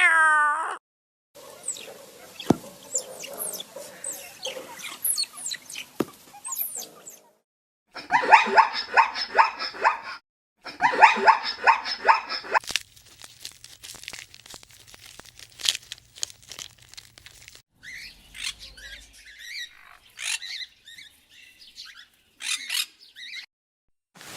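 Small birds chirping and calling, heard as a string of short separate clips of quick, high chirps and trills with brief gaps between them.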